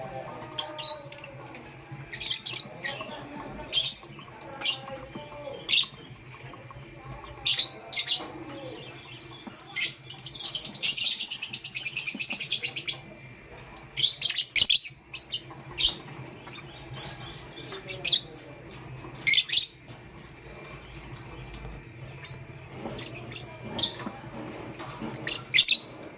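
Lovebird chirping: short sharp high calls scattered throughout, with a burst of fast chattering for about three seconds around ten seconds in.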